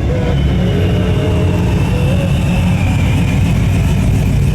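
A car's engine running with a loud, low rumble as the car rolls by.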